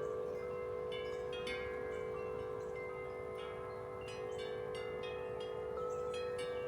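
Several large tuned wind chimes ringing continuously in strong wind. Deep notes hold steady under frequent overlapping strikes of higher bell-like tones, each fading slowly.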